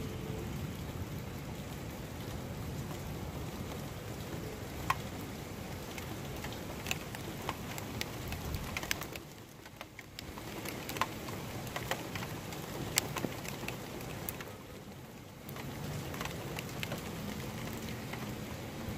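Rain falling, with scattered single drops ticking sharply close by over a steady hiss.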